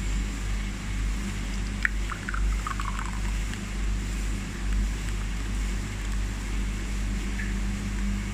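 Steady low hum of a fan or air conditioner, with a few light clicks about two to three seconds in.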